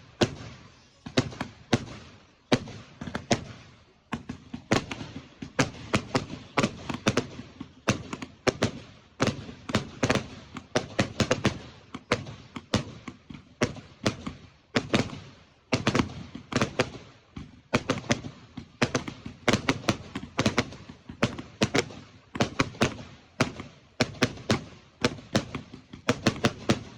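Fireworks display: an unbroken barrage of sharp bangs and cracks, coming irregularly several times a second in clusters.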